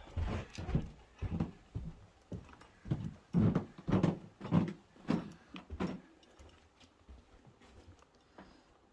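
Footsteps, about two a second, dying away about six seconds in.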